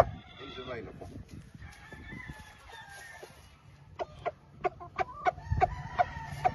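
Gamefowl roosters and hens: faint crowing and chicken calls in the background, then about four seconds in a quick run of about eight short, sharp calls.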